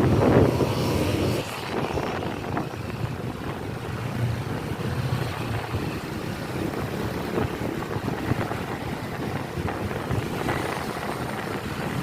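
Outdoor rumble with wind buffeting the microphone and a low steady hum like vehicle traffic; louder for the first second and a half, then steady.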